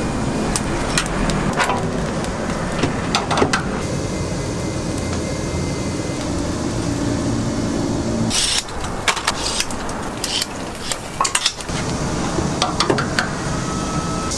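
Kitchen work sounds: metal utensils and dishes clinking and clattering over a steady low machine hum, which cuts out about eight seconds in, after which the clinks come thicker.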